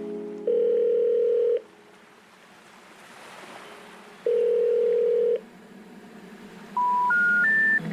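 Telephone line tones: a steady tone of about a second, sounding twice a few seconds apart, then three short beeps stepping up in pitch near the end, like the rising three-note signal for a number that cannot be reached.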